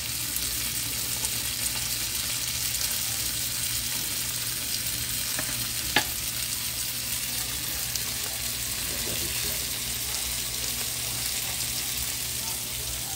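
Sautéing onions and freshly added chopped tomatoes sizzling steadily in a frying pan, with one sharp click about six seconds in.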